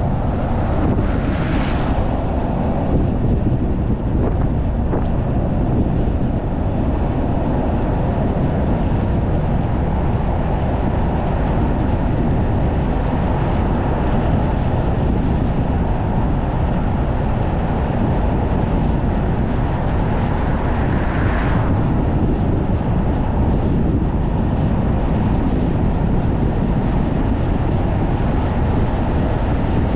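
Strong wind and road noise from a car on the move: a steady, heavy low rumble, with two brief louder rushes, one about a second in and one about twenty-one seconds in.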